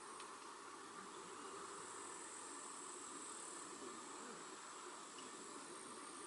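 Insects trilling steadily in a high, thin, continuous note over a faint, even outdoor background hiss.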